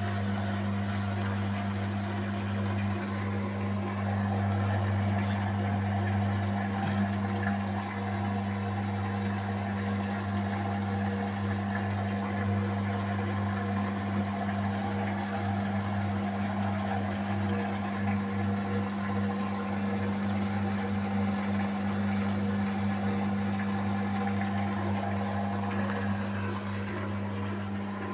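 Beko WMY81283LMB2 washing machine in its final spin with an unbalanced load of curtains: the drum and motor run with a steady, even hum at constant speed.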